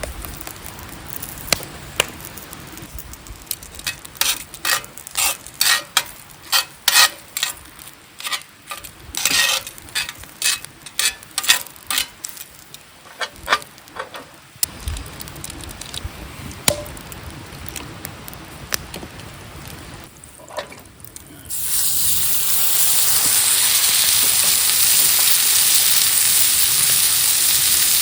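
A run of light clicks and taps, then, about two-thirds of the way in, a sudden loud, steady sizzle as steak starts to cook over the campfire.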